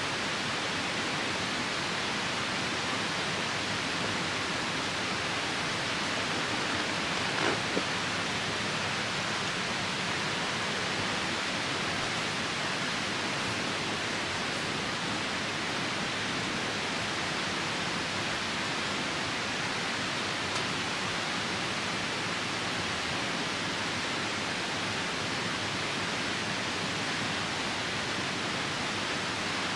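Steady rushing of a nearby river mixed with rain. A short double crackle from the campfire comes about seven and a half seconds in.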